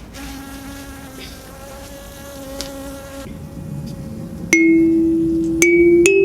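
Mahogany kalimba: a faint steady buzzing tone for about three seconds, then three tines plucked about a second apart. Each rings on, and each is a little higher in pitch than the one before.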